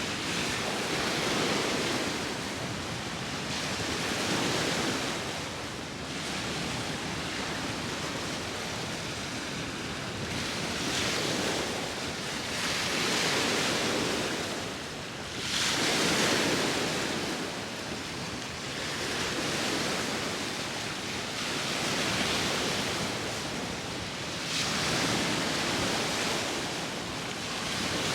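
Sea waves breaking and washing ashore in slow surges every few seconds, with wind blowing steadily underneath.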